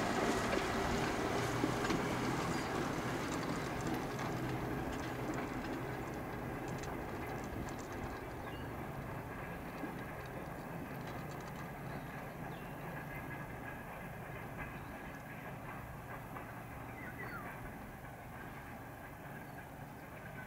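Freight train rolling away behind 2TE10 two-stroke diesel locomotives: the rumble of wagon wheels on the rails and the drone of the diesel engines, fading steadily as the train moves off.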